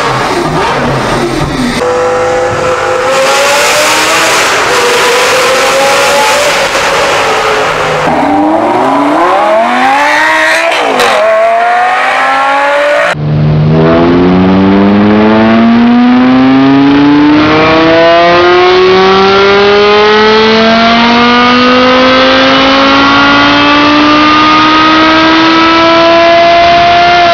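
Lamborghini Gallardo's V10 running on a chassis dyno, revving with pitch rising and falling. About thirteen seconds in it changes to a Porsche Carrera GT's 5.7-litre V10 making a long dyno pull, its pitch climbing steadily to high revs.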